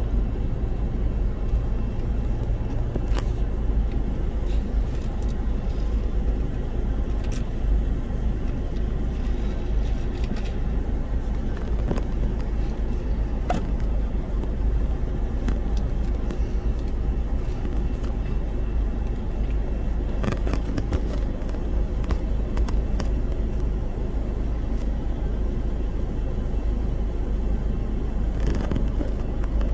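Freight train of tank cars rolling past, a steady low rumble with scattered clicks, heard from inside a car.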